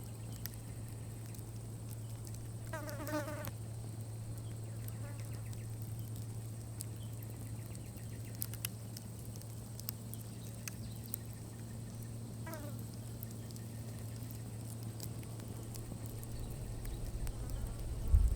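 A campfire burning down, its embers giving sparse faint crackles and pops over a steady low buzz. A bird calls briefly about 3 seconds in and again about 12 seconds in.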